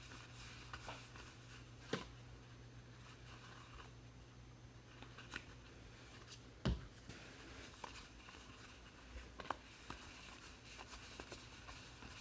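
Trading cards being handled and sorted: faint soft rustling with a few light clicks and taps, the clearest about two seconds in and again near the middle, over a low steady hum.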